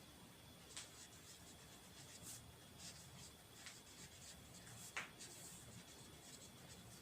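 Faint scratching of a pen writing on paper, in short strokes, with one sharper tap about five seconds in.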